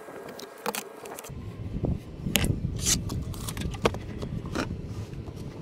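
Scattered clicks, knocks and scrapes of wood and tools being handled. A low steady rumble sets in about a second in.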